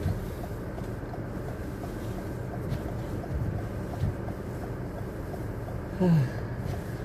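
Car driving along a snow-covered road: a steady low rumble of engine and road noise.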